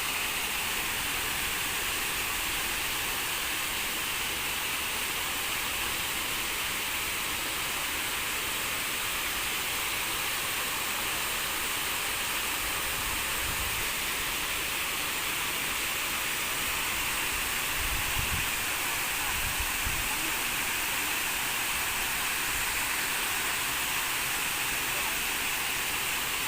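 Waterfall rushing: a steady, even hiss of falling and splashing water that does not change.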